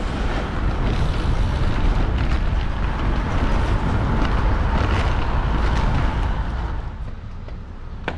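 Wind rushing and buffeting over the microphone of a camera on a moving bicycle, a heavy low rumble that eases off about seven seconds in. A single sharp click comes near the end.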